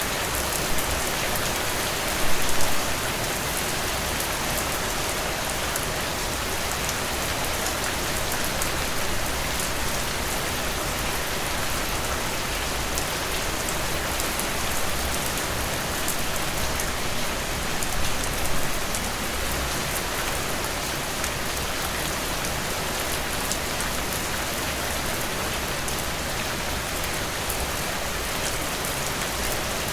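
Heavy rain pouring down in a dense, steady hiss, with two brief louder spells, about two and a half seconds in and again about eighteen seconds in.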